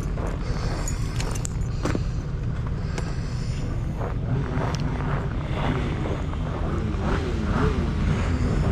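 Vehicle engine running with a steady low rumble and a few clicks. In the second half a pitched tone wavers up and down as the engine speed changes.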